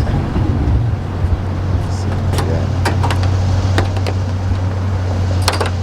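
A car's V8 engine idling steadily, with a few sharp clicks and knocks over it.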